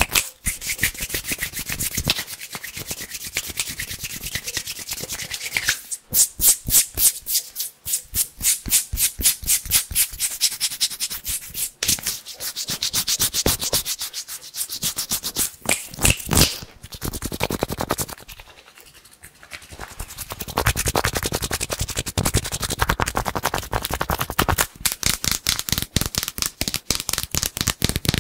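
Fast, crisp hand sounds close to the microphone: palms and fingers rubbing and brushing together in rapid dry strokes, several a second, easing off for a couple of seconds about two-thirds of the way through before picking up again.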